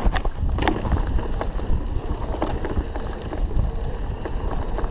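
Mountain bike riding over a rough trail: wind buffets the microphone over the rumble of the tyres, with scattered knocks and rattles from the bike as it hits bumps.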